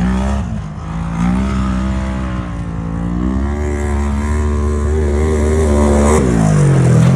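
Side-by-side UTV engine revving hard on a dirt track, its pitch climbing and easing with the throttle. Near the end it drops sharply, then climbs again.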